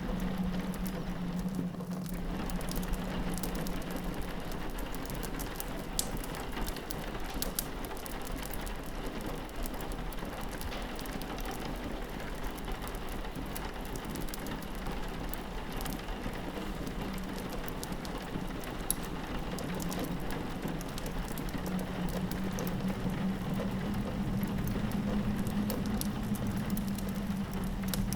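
Rain on a window over a crackling fireplace: a steady wash of rain with scattered sharp crackles and pops from the fire. A low wind howl fades out a couple of seconds in and swells back near the end.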